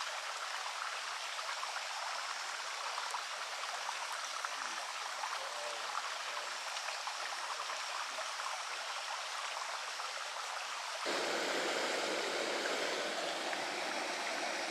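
A stream running: steady rushing water. About eleven seconds in it abruptly becomes louder and fuller.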